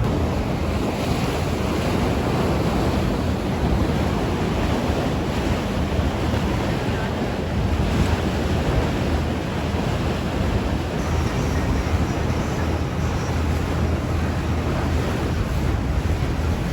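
Wind buffeting the microphone over a steady low rushing noise.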